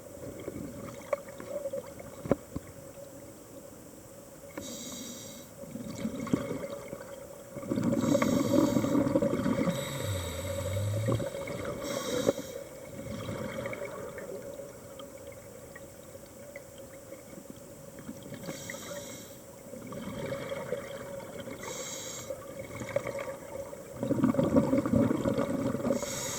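Scuba diver breathing through a regulator underwater. Short hissing inhalations alternate with louder rumbling bursts of exhaled bubbles, the loudest near the middle and near the end, over a steady faint hum.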